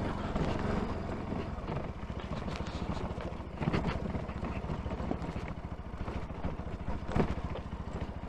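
Bajaj Pulsar NS200's single-cylinder engine running steadily at low speed as the motorcycle rides down a rough, stony mountain track. There are two louder knocks, about three and a half and seven seconds in.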